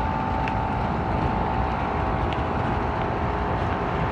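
5-ton Ruud central air conditioner with a rotary compressor running in cool mode: a steady rush of air with a constant high tone through it.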